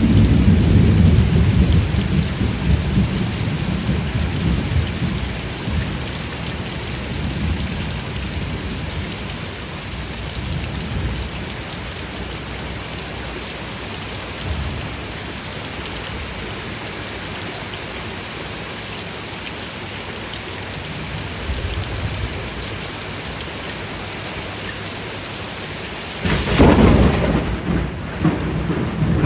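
Steady rain with thunder: a low rumble of thunder dies away over the first several seconds, then a sudden loud thunderclap comes near the end and rumbles on.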